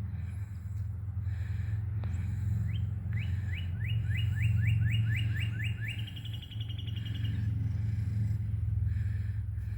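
A songbird singing one song about three seconds in: a run of about a dozen quick sweeping notes that ends in a short trill. A steady low rumble runs underneath.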